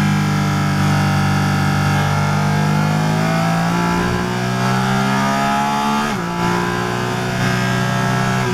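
Porsche Cayman GT4 RS Clubsport's naturally aspirated 4.0-litre flat-six pulling hard in fourth gear, rising steadily in pitch. About six seconds in there is a quick upshift into fifth, heard as a sudden drop in pitch, and then the engine climbs again under full throttle.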